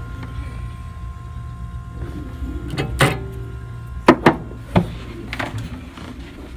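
Steady low hum of a running appliance, broken by a few sharp knocks and clacks, one about three seconds in and a cluster of three between four and five seconds in, like a door or panel being handled.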